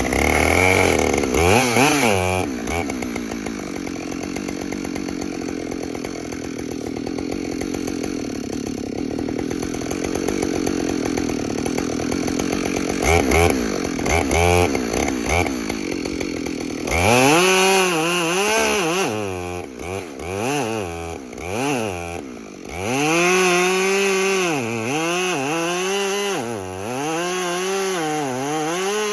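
Two-stroke chainsaw cutting wood, held at a steady high throttle in the cut for about ten seconds. Then it revs up and down over and over through the second half.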